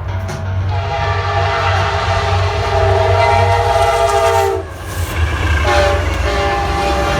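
Diesel locomotive air horn sounding a chord over the low engine rumble of a passing train. One long blast ends sharply about four and a half seconds in. A short blast follows, and another blast starts near the end.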